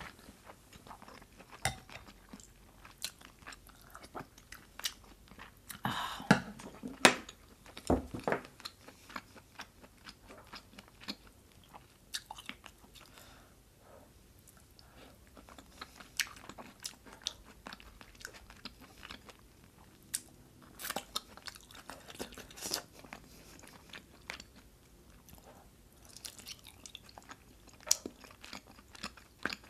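Eating sounds close to a microphone: chewing and biting food, with irregular sharp clicks of chopsticks on the dish.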